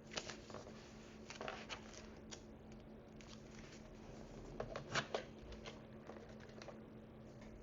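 Tiny plastic miniature food pieces and dishes being handled and set down: scattered light clicks and taps, a small cluster about four to five seconds in.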